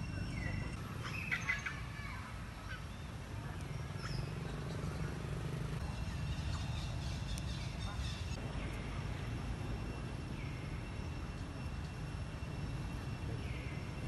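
Forest ambience: wild birds give short chirping calls every few seconds, several of them dropping in pitch, over a steady low rumble and a thin, steady high ringing tone.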